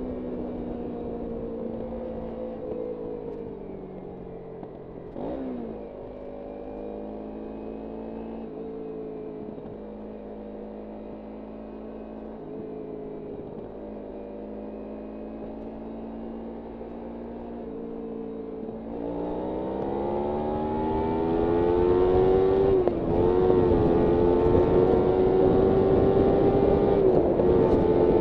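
Kawasaki Ninja 300's parallel-twin engine on the move: revs fall away at first, then stay low and quieter for a long stretch with a quick blip about five seconds in. From about two-thirds of the way through it accelerates, pitch rising and louder, dips briefly at a gear change, then holds high revs with more wind rush.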